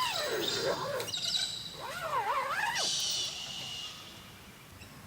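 Two wavering, howl-like calls, each about a second long, rising at the start and falling away at the end, over a steady high chirring that fades after about three seconds.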